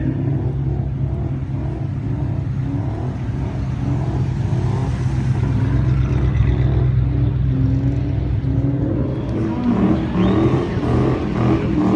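Mustang's engine held at high revs with a steady, loud note; from about nine seconds in the pitch rises and the note turns uneven as the throttle is worked.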